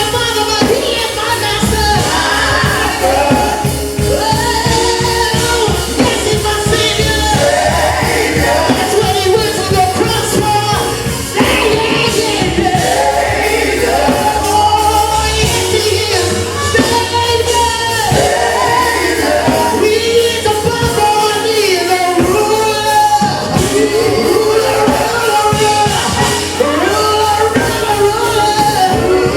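Live gospel worship music: several voices singing held, sliding notes over a band with bass and a steady beat.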